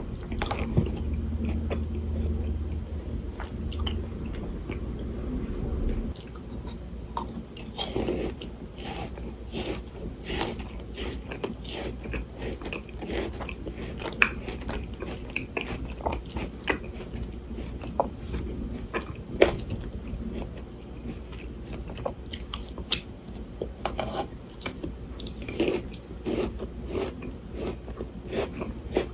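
Frozen Shine Muscat grapes being bitten and chewed close to the microphone: irregular crisp, icy crunches and crackles, with a few sharper, louder bites. A low steady hum runs underneath and stops about six seconds in.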